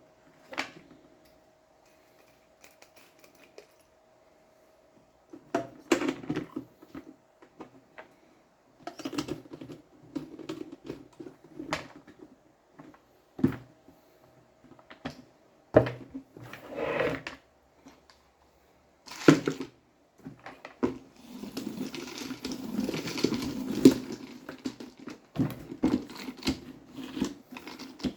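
Plastic parts of a spin mop and bucket set being handled: scattered clicks, knocks and taps with short pauses between, then continuous rustling and clattering from about 21 seconds in.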